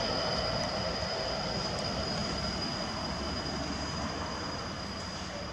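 GBRf Class 66 diesel locomotive and its freight train rumbling along the main line and slowly fading as it moves away, with a steady high-pitched squeal.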